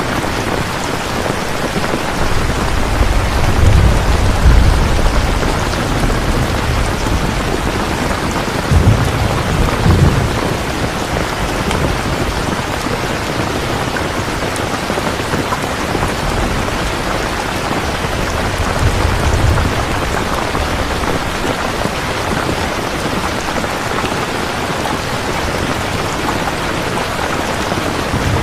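Steady heavy rain falling, with low rolls of thunder rumbling three times: a few seconds in, around ten seconds in (the loudest), and more softly near twenty seconds.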